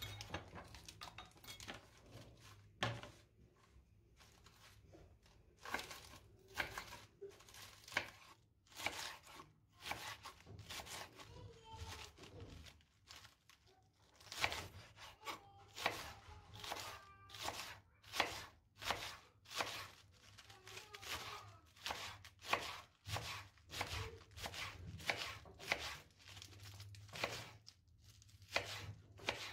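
Knife chopping on a cutting board: a run of sharp, uneven strokes, sparse for the first few seconds, then about one or two a second.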